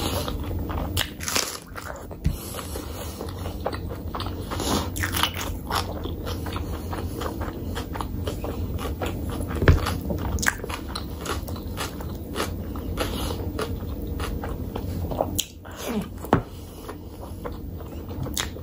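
Close-miked chewing and biting as a person eats mouthfuls of mutton curry and rice by hand, a steady stream of small wet mouth clicks with some crunchy bites and one louder click about ten seconds in.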